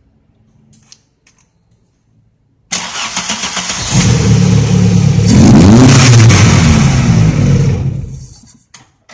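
VW Vento 1.8 four-cylinder petrol engine starting: a sudden onset about three seconds in, the engine catching and rising in pitch in a brief rev, then dying away near the end. This is the engine just after a timing-belt replacement, running in a way the owner calls harsh.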